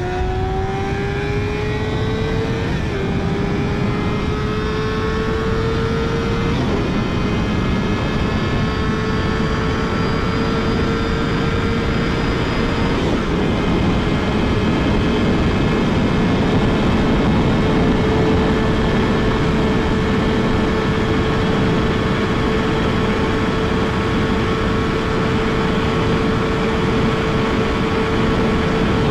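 Yamaha YZF-R6's inline-four engine at full throttle, its pitch climbing over the first several seconds with brief breaks about 3 and 6.5 seconds in. It then holds a high, nearly steady scream at top speed, under heavy wind noise.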